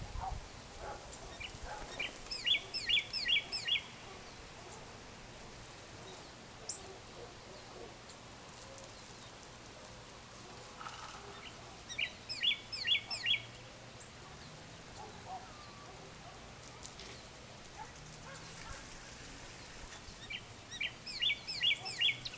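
A bird singing a short phrase of about five quick chirps three times, roughly every ten seconds, over a faint steady background hum.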